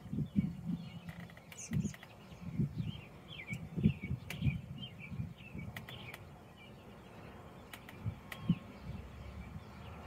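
Small birds chirping: runs of short, quick, downward-sliding chirps, densest mid-way. Irregular low rumbles run underneath and are the loudest part.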